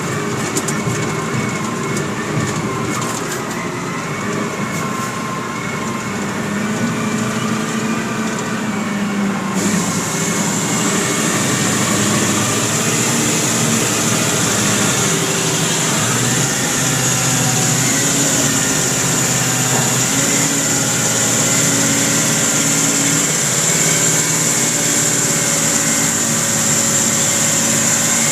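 Caterpillar mining haul truck running steadily, its large diesel engine giving several steady tones. About ten seconds in a steady high hiss joins it and the sound grows a little louder.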